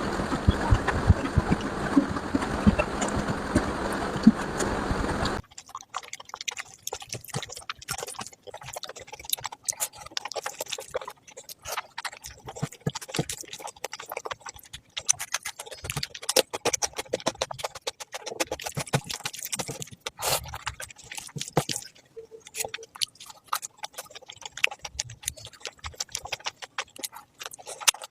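Close-miked eating sounds: quick, irregular wet clicks and smacks of chewing curry and rice. A dense rushing noise comes first and cuts off suddenly about five seconds in.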